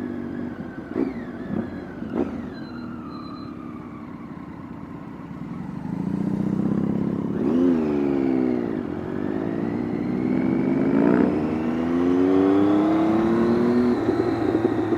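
Motorcycle engine running at low speed, then from about six seconds in pulling harder, its pitch rising, dropping at a gear change and climbing again.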